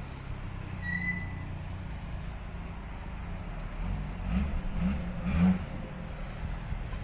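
Jaguar E-Type's 4.2-litre XK straight-six engine idling, then revved in a few quick blips of the throttle a little past the middle.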